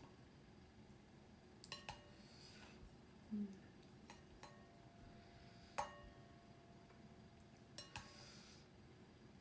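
Faint clinks of dishes and utensils, about three times, each with a brief ringing, during a meal in an otherwise quiet room.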